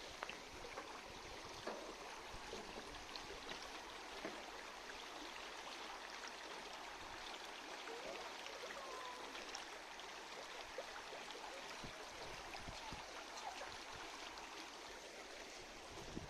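Running stream water flowing steadily.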